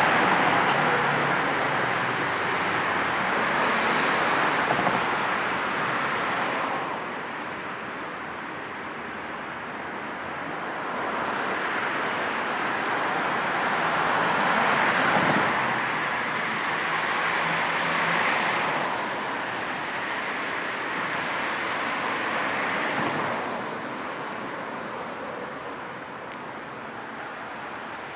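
Road traffic: vehicles passing one after another, each a swell of tyre and engine noise that rises and fades over a few seconds, over a steady background hum.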